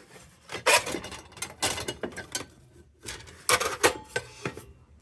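Old kerosene lantern parts being handled: irregular scraping and rubbing with several sharp knocks and clinks of metal and glass, the loudest about a second in and again around three and a half seconds in.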